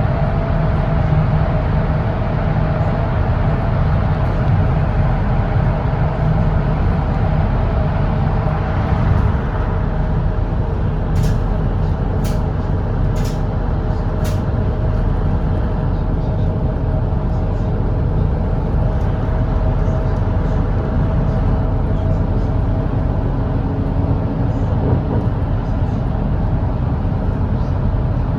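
Volvo B8RLE double-decker diesel bus cruising on an expressway: steady engine drone with a constant whine and road noise. Four short sharp clicks come about midway through.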